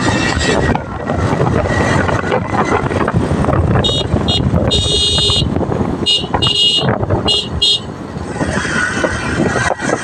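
Wind and road noise of a motorcycle ride at highway speed. Between about four and eight seconds in, a vehicle horn honks: one longer blast, then several short toots.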